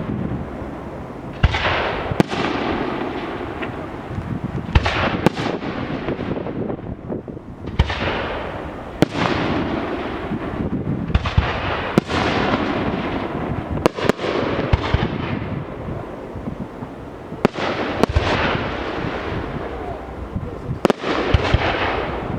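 Professional fireworks display: aerial shells bursting in quick succession, a sharp bang every one to two seconds, each trailed by a rush of noise that fades away.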